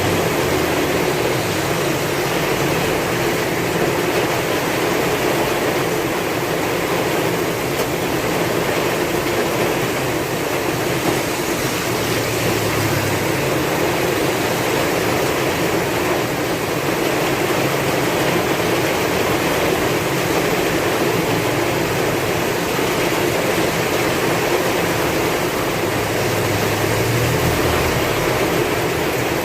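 Heavy rain falling steadily with strong wind, an even loud hiss throughout; a low rumble swells briefly around the middle and again near the end.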